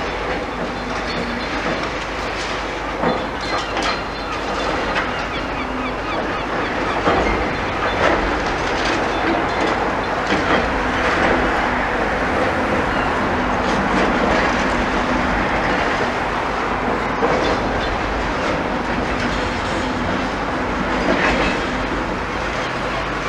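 Demolition excavator at work on a building: continuous clattering and knocking of debris and metal over a low engine rumble.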